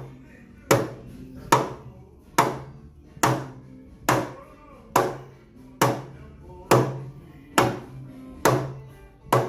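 Hammer blows driving a port tube into a speaker enclosure for a pressure fit: about eleven sharp, ringing strikes at an even pace, a little over one a second, over background music.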